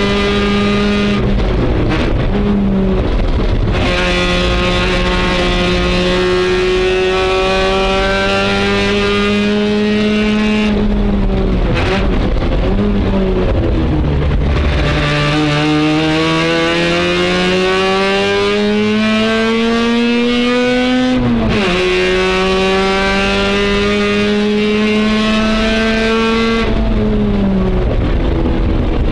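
Race car engine heard from inside the cabin on a hot lap. It climbs in pitch under full throttle, drops sharply at each upshift, and falls away when lifting and downshifting for corners, with the longest pull climbing for about six seconds before a shift about two-thirds of the way in.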